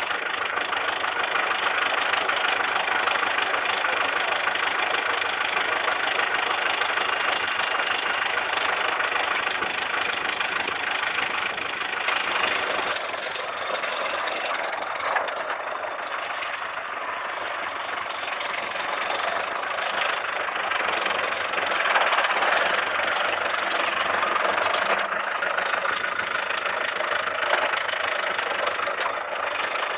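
Engine of a mechanical peanut-planting machine running steadily as it drives off and works, with a few light ticks over the top.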